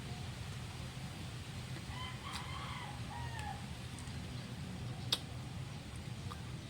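A rooster crows once, about two seconds in, a single call of roughly a second and a half. A sharp click follows near the end.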